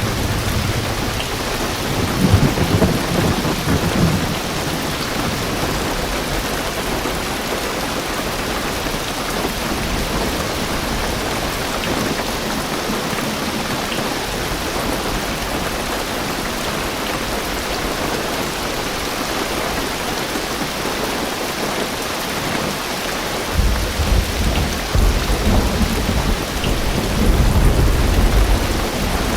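Heavy rain drumming on a car roof and windows as a steady hiss, with a short deep rumble of thunder about two seconds in and a longer rolling one over the last six seconds.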